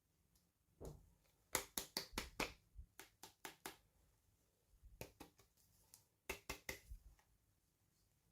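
Clusters of quick, sharp clicks and taps from hands handling small plastic toy packaging during an unboxing, several in a row, then pausing and resuming.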